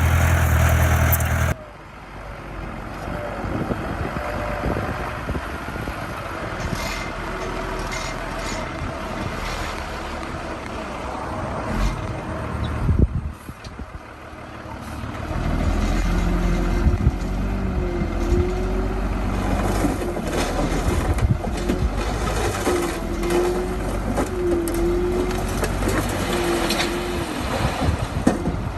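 Heavy diesel construction machinery running and working. The sound changes abruptly about a second and a half in, dips briefly about halfway, then comes back louder, with short squeals repeating over the engine in the second half.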